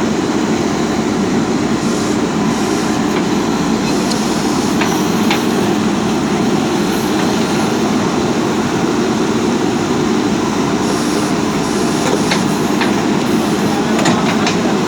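A JCB 3DX backhoe loader's diesel engine runs steadily while the machine moves over rough ground, with a few sharp clicks and rattles.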